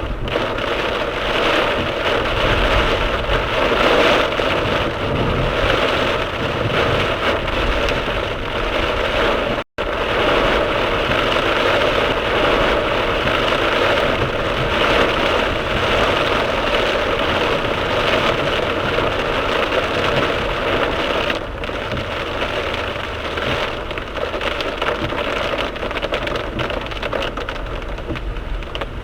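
Heavy downpour drumming steadily on a car's roof and windscreen as the car drives through a sudden cloudburst, with low road noise beneath. The sound cuts out for an instant about ten seconds in and eases slightly about two-thirds of the way through.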